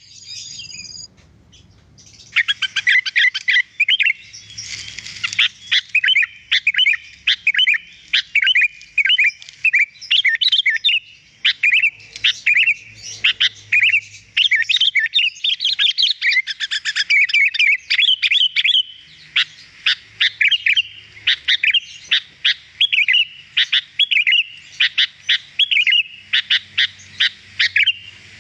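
Sooty-headed bulbul (kutilang) singing a fast, unbroken run of short chirps and whistled notes, starting about two seconds in.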